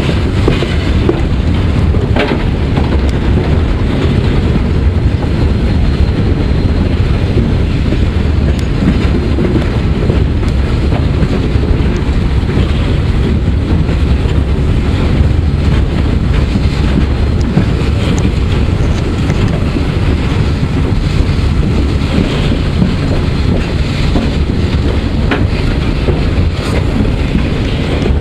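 Steady, loud running noise on the footplate of the PKP Ol49 steam locomotive under way: a constant low rumble of wheels and running gear with a few faint clicks, and wind on the microphone.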